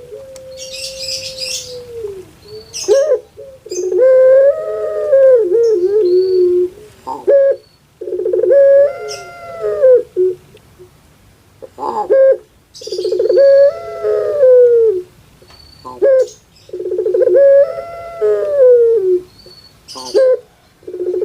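Puter pelung, the long-voiced Javanese domestic ringneck dove, calling over and over, about one call every four to five seconds. It opens with a long held note that falls away. Each later call starts with a quick rattling stutter and swells into a long coo that rises and then falls.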